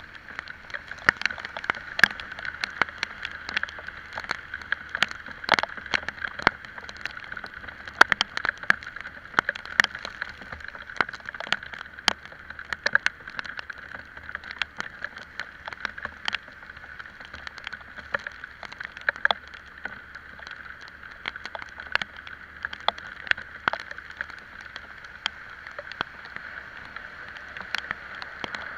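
Raindrops tapping irregularly on the microphone of a camera carried on a moving scooter in the rain, over a steady hiss.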